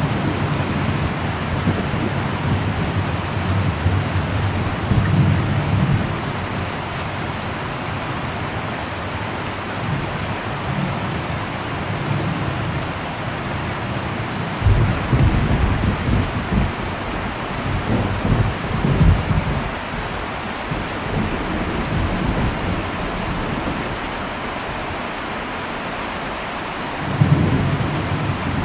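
Heavy rain falling on an old metal roof as a steady hiss, with low rolls of thunder rumbling several times; the last roll comes near the end.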